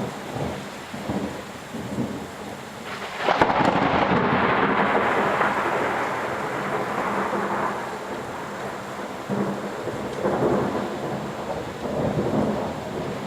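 Thunder over steady rain. A sudden clap about three seconds in rolls on for several seconds before fading, and shorter rumbles follow near the end.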